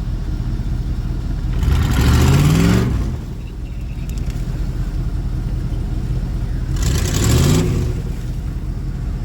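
Mud truck engine running with a low rumble and revved hard twice, its pitch rising on each rev, with a loud rush of noise during each surge.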